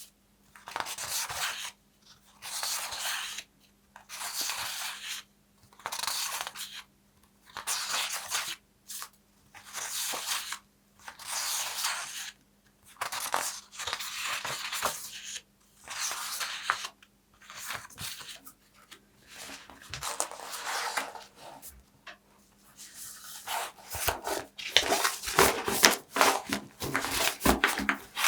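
Paper being torn in a series of slow, even strokes of about a second each, one after another. In the last few seconds the strokes become quicker and crackling.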